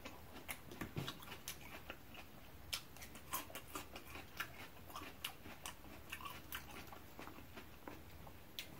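A person quietly chewing crunchy fresh salad, irregular soft crunches and wet chewing, mixed with light clicks of chopsticks picking through a plastic takeout container.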